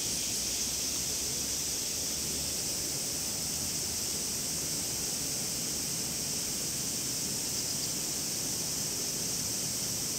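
Cicadas calling together in a steady, high-pitched drone, over a low, even hiss of rain and dripping water.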